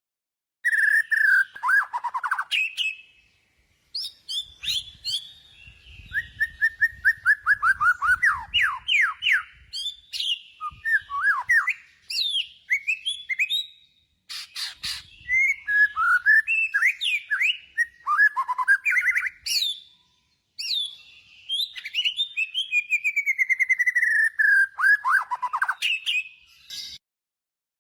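Bird song: rapid chirps, whistled glides and fast trills that fall in pitch, in several long phrases broken by brief pauses.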